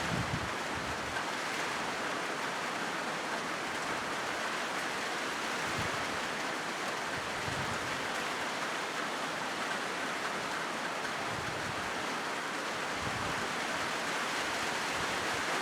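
Steady rain drumming on a corrugated zinc roof: an even, unbroken hiss of drops on the metal sheets.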